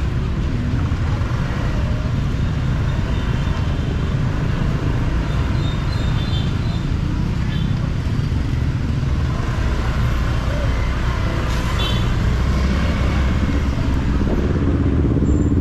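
Steady low rumble of a motorbike ride through busy city traffic, with the ride's own engine and the surrounding vehicles blended together.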